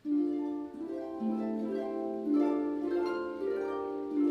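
Harp music: plucked notes that ring on and overlap into chords, starting suddenly at the very beginning.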